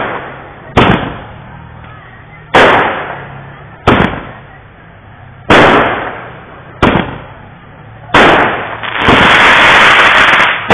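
Aerial fireworks bursting in the sky, six sharp bangs at roughly one-and-a-half-second intervals, each trailing off in a rumbling echo. Near the end comes a loud continuous rush of noise lasting about two seconds.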